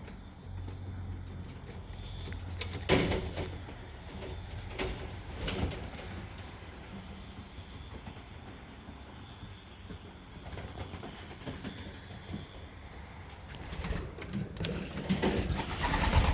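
Pigeons cooing, with small high chirps and a few sharp knocks about three and five seconds in, over a low steady hum. The bird sound grows busier and louder near the end.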